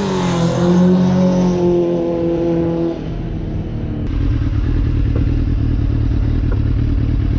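Suzuki GSX-R sport bike's inline-four engine running at high revs with a steady whine, then dropping about three seconds in to a low, rough rumble.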